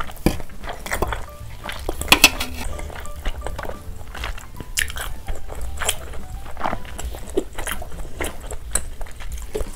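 Close-miked wet chewing and smacking of a mouthful of cheese-covered noodles: many irregular sharp mouth clicks.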